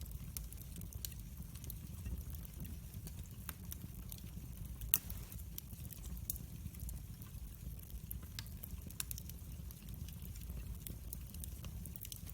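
Wood fire in a fireplace crackling: irregular sharp pops and snaps over a low steady rumble, with one louder pop about five seconds in.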